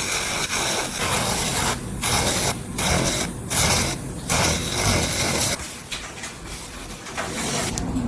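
Electric nail drill with a mini sanding band abrading a nail: a steady gritty hiss, broken by several short pauses as the band is lifted off, and quieter over the last couple of seconds.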